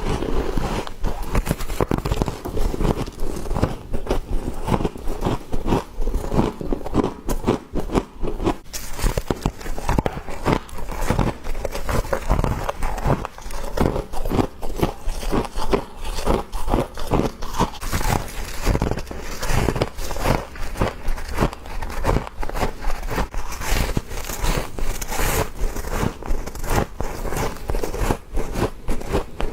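Close-up biting and chewing of frost: dense, continuous crisp crunching.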